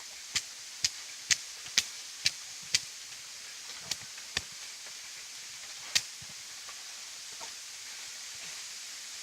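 Dry sticks cracking sharply: a quick run of six cracks at about two a second, then three more, scattered.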